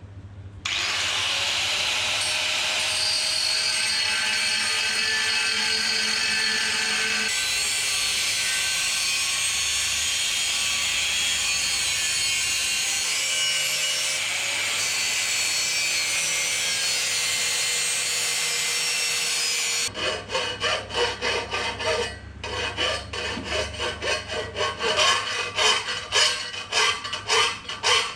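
A power tool runs steadily, cutting or grinding, for most of the stretch. It stops about 20 seconds in, and rhythmic back-and-forth scraping strokes follow at about two to three a second, like hand sawing or filing.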